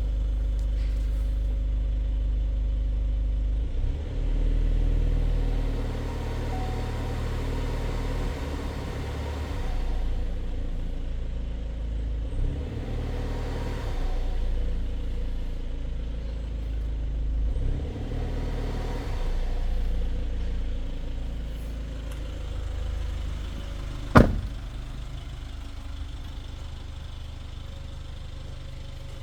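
2023 LDV Deliver 9's 2.0-litre turbodiesel engine running during an engine test, revved up and back down to idle a few times. A single sharp knock about three-quarters of the way through.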